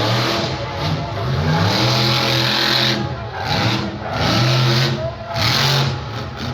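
Monster truck's engine revving hard in several surges, its pitch climbing and dropping with the throttle.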